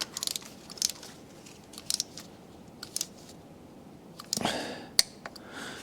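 Torque wrench ratcheting on the M156 V8's intake manifold bolts: scattered sharp metallic clicks, a quick run of them at the start and single clicks every second or so, with the loudest click about five seconds in.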